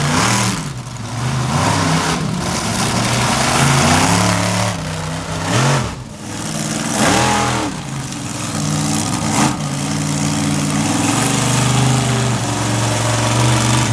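Monster truck engine revving hard, its pitch swinging up and down again and again as the truck is driven through a freestyle run, with a short drop in revs about six seconds in.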